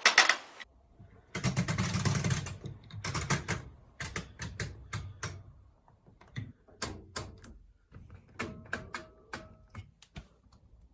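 Old washing machine's rotary program selector dial being turned, clicking through its notches in quick irregular runs, after a brief rustle of handling.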